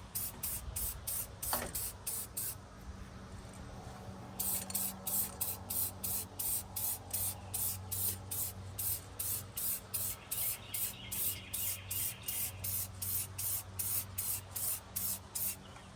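Aerosol spray-paint can hissing in rapid short bursts, about three a second, with a pause of a couple of seconds early on.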